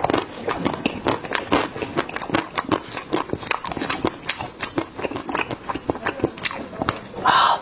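Close-miked eating sounds: wet chewing and mouth clicks, many small smacks in quick irregular succession, with a louder burst of noise near the end.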